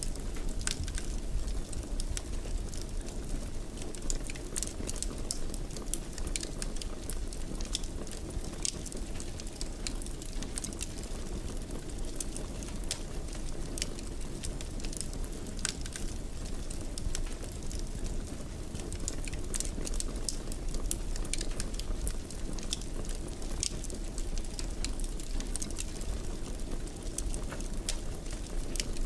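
Fire burning in a fireplace: a steady low rumble with many sharp crackles and pops scattered throughout.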